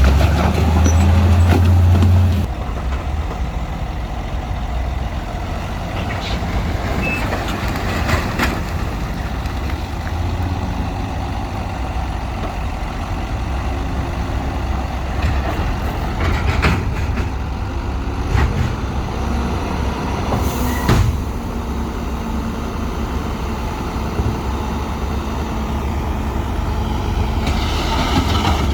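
Heavy diesel earthmoving machinery running steadily, louder for the first couple of seconds, with a few sharp clanks and a brief hiss along the way.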